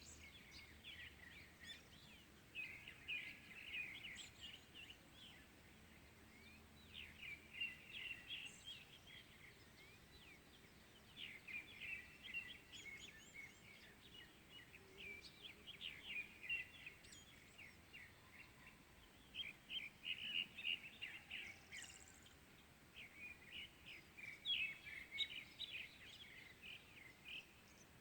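Small songbirds chirping and twittering in quick runs of notes, one burst every few seconds with short pauses between, over a faint steady outdoor background.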